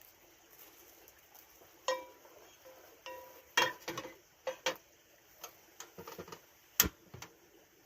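Kitchenware being handled during cooking prep: a dozen or so sharp clinks and knocks. About two seconds in, one struck item rings briefly with a clear tone, and rings again a second later. The loudest knock comes near the end.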